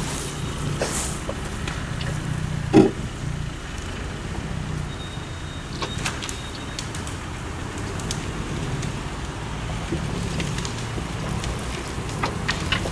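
Vehicle engine running steadily at low revs, with a single knock nearly three seconds in and a few faint clicks later.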